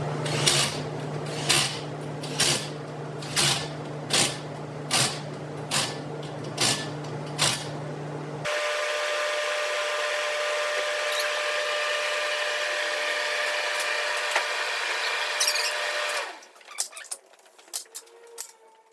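Impact wrench running: first a steady hum with a louder pulse about once a second, then one long steady run of about eight seconds at a higher pitch that stops suddenly, followed by a few light clicks.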